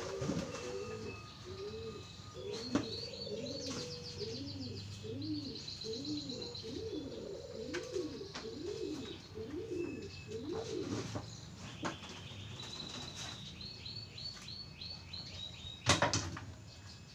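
Birds calling: a low cooing note repeated rapidly for about ten seconds, with two runs of high chirping trills. A single sharp knock near the end.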